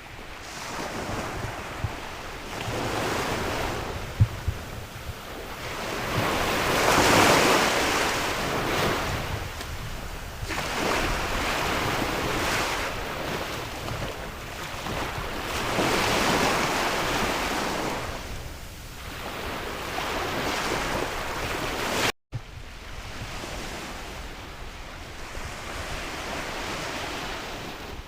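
Sea waves washing in and breaking on the shore, swelling and fading about every four to five seconds, with wind buffeting the microphone. The sound cuts out for a split second about three-quarters of the way through.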